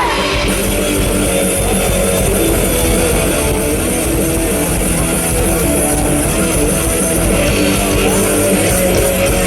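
Live rock band playing a loud, steady guitar-driven passage with electric guitar and bass.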